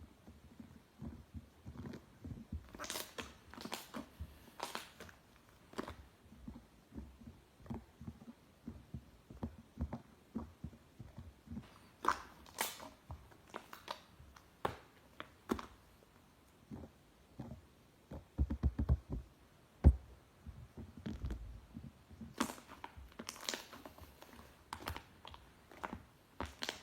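White slime being squeezed, stretched and pressed by hand: irregular sticky squishing with many small pops and clicks as air pockets burst.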